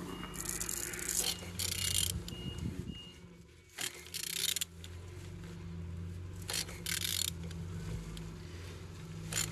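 Toyota 3S-FE inline-four engine being turned over by hand: several short scraping strokes, irregularly spaced. The engine turns freely rather than being seized. A steady low mechanical hum runs underneath.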